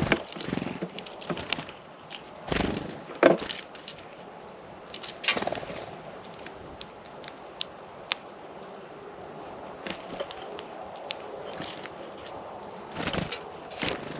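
Birds busy at a feeder close to the camera: scattered sharp taps and knocks of beaks and feet on the feeder, with a few short rustling bursts, over steady background hiss.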